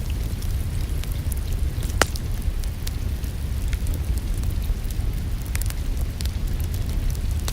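Wood fire crackling in a fireplace: a steady low rumble with scattered sharp pops and snaps, the loudest about two seconds in, mixed with a soft hiss of rain.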